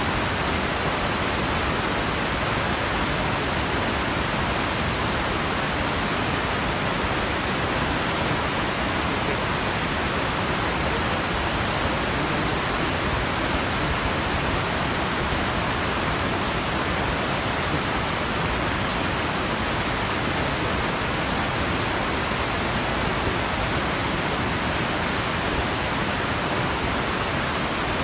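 Steady, unbroken rush of flowing water, even and unchanging throughout.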